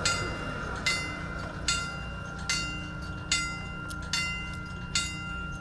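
Steam locomotive's bell ringing steadily, about seven even strikes a little faster than one a second, each ring hanging on into the next, over a low rumble.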